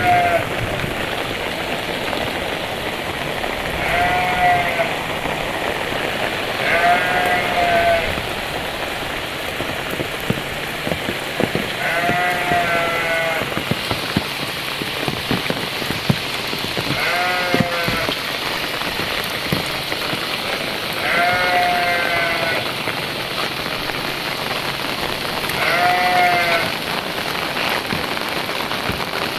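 Heavy rain falling steadily, with an animal's short pitched call repeating every few seconds, about seven times.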